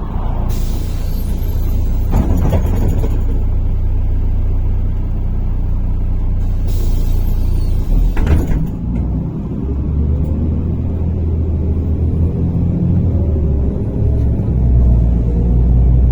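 Inside a MAZ-103 city bus at a stop: compressed air hisses twice, about half a second in and again about seven seconds in, from the pneumatic doors and brakes. From about nine seconds the diesel engine speeds up as the bus pulls away, its note rising over a low rumble.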